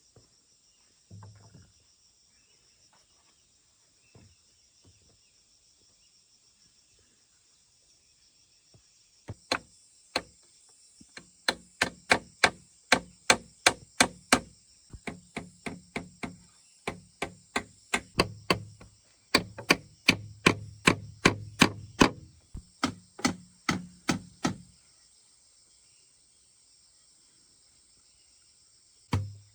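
A hand tool striking wood with repeated sharp blows, about three a second, in runs broken by short pauses. There is one blow about a second in; the steady runs begin about ten seconds in and stop a few seconds before the end.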